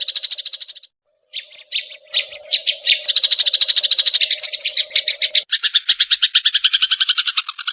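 Sparrows giving a fast, harsh chattering call, the rapid chirp trains of sparrows fighting. The chatter breaks off briefly about a second in, picks up again, and drops to a lower-pitched run about two thirds of the way through.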